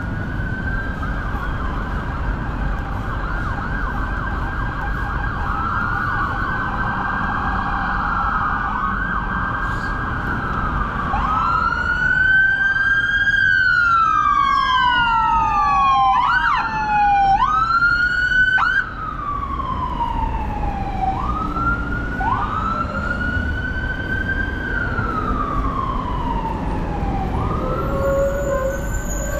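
Emergency vehicle siren sounding over city traffic rumble. For about the first ten seconds it is a fast warble; then it changes to slower wails, each a quick rise and a long fall in pitch.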